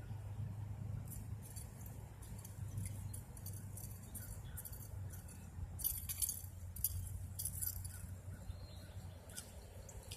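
Irregular light metallic clicking and clinking, busiest in the second half, over a low steady rumble.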